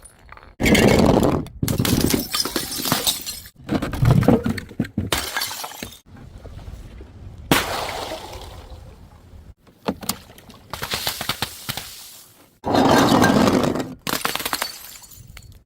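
Glass bottles smashing one after another, about eight or nine separate crashes with shattering and clinking shards, each cut off suddenly by the next.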